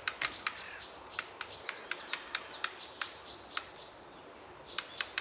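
Small birds chirping: quick sharp chirps a few times a second over a thin, steady high note, with a higher warbling trill about four seconds in.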